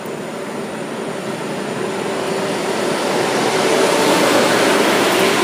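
KTX high-speed train arriving along a station platform: a rushing rumble with a faint steady hum, growing louder as the power car and carriages roll past close by.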